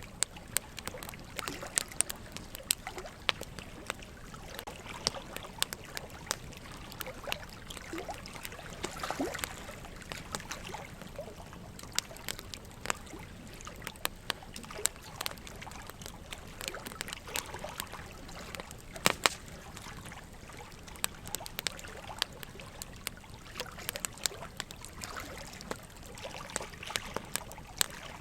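Wood fire crackling with frequent irregular sharp pops and snaps, over a steady trickle of running water.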